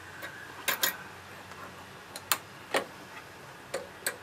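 Metal hand tools clinking and clicking as they are picked up and handled: about eight sharp, irregular clicks, the loudest just under a second in and again in the middle.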